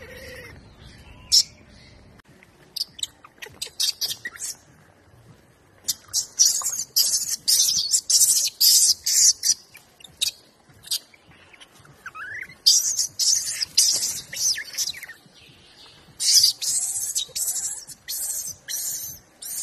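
Birds chirping: quick runs of short, high, scratchy chirps that come in three spells, with one short rising call about twelve seconds in.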